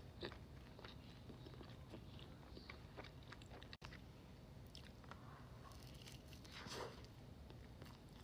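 Close-miked mukbang eating: crunchy bites and chewing with scattered small mouth clicks and smacks, a little louder about six and a half seconds in.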